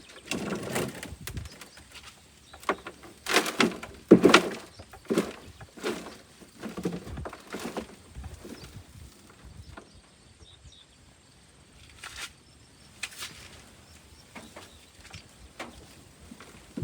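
Hands digging potatoes out of soil, making irregular rustling scrapes and soft knocks. These come thick and fast through the first half, then thin out to a few scattered ones.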